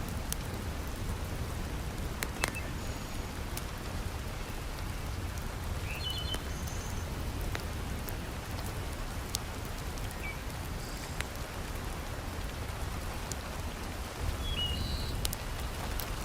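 Heavy rain falling steadily as a dense hiss, with scattered sharp crackles from a wood fire. A few brief high chirps are heard here and there.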